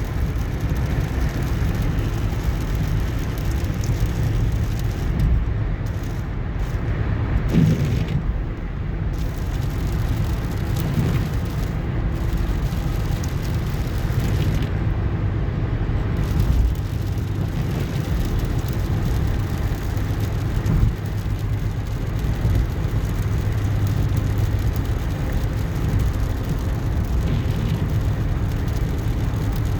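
Car driving on a highway: a steady rumble of engine and tyre noise, with a couple of brief louder bumps.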